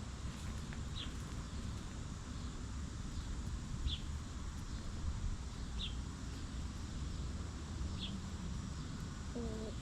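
A wild bird gives a short, high, falling chirp four times, about every two seconds, over a steady low rumble of outdoor background noise. A hen gives a brief low cluck near the end.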